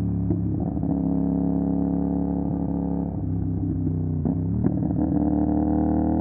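CFMOTO 450 SR parallel-twin engine running through an MSH G6 full-system aftermarket exhaust at steady revs while riding. Around four seconds in the revs dip briefly and pick up again, then climb slowly near the end.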